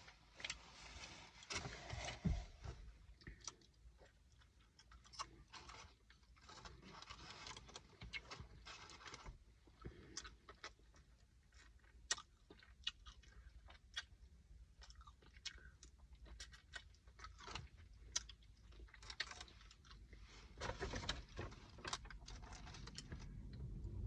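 Close-up chewing and biting of fast food, faint, with many small wet mouth clicks and smacks and a few louder crunchy stretches.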